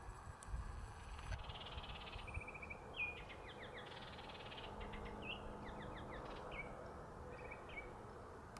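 A songbird singing faintly, in repeated short phrases of quick trills and sharp hooked notes. A low rumble of wind on the microphone lies underneath, strongest in the first second or so.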